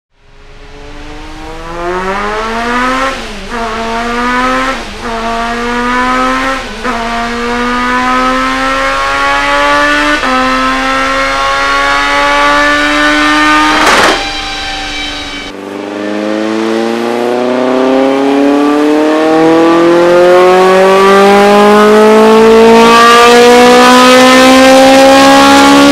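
Renault Clio F2014 Maxi's 2.0-litre 16-valve engine revving hard under load. The pitch climbs through several quick upshifts, there is a sharp crack about fourteen seconds in, and then one long rising pull toward high revs.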